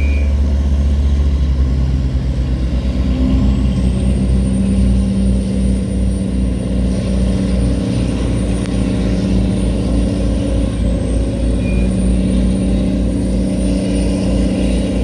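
Tugboat's diesel engine running steadily under load while towing a cargo barge against the current: a low, fast-pulsing drone. A thin, high, steady whine joins it about four seconds in.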